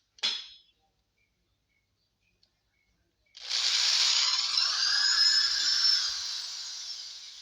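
A short click, then about three seconds later an electric drill with a thin bit runs for about four seconds, drilling a pilot hole for a speaker-mounting screw into the wooden box. Its pitch drops and the sound fades as it slows near the end.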